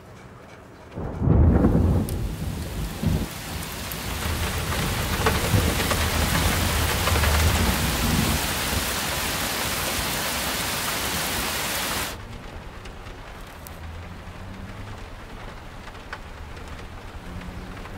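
Heavy rain with thunder: a loud thunderclap about a second in, more rumbles over the next several seconds, then the downpour cuts off suddenly about twelve seconds in, leaving a fainter steady hiss.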